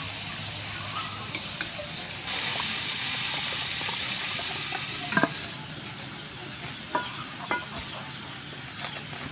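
Pork belly deep-frying in hot oil in a pot, a steady sizzle that turns louder and denser for a few seconds in the middle. A few sharp clinks come in the second half.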